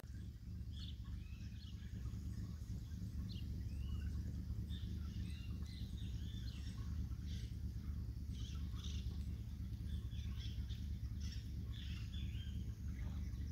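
Birds chirping and calling in short, repeated, rising and falling notes over a low, steady rumble.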